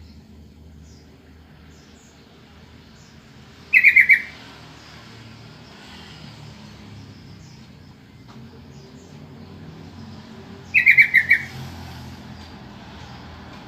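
Sooty-headed bulbul (trucukan) calling: two short bursts of about five quick notes each, one about four seconds in and one near eleven seconds, with faint high chirps in between. It is a bulbul call used as a lure to draw other trucukan to answer.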